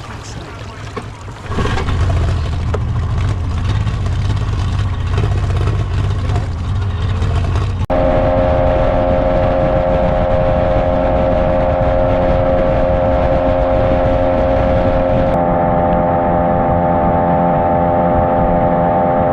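Outboard jet boat engine running steadily with rushing noise and a low hum. About eight seconds in it cuts abruptly to a steady, fixed-pitch motor drone that holds until the end.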